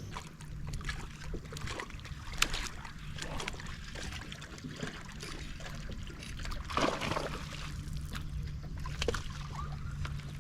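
Rain falling on the lake and the boat: a steady hiss with many scattered small ticks and drips, over a faint low steady hum.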